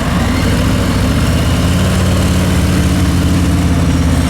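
Harley-Davidson motorcycle engine running at low speed during a slow turn, its note settling and holding steady about a second and a half in.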